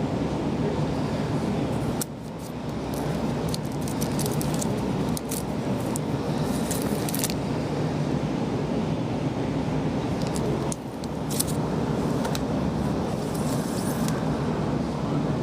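Steady low rumble with two spells of light, sharp jingling or clinking, the first from about three seconds in and the second in the later part.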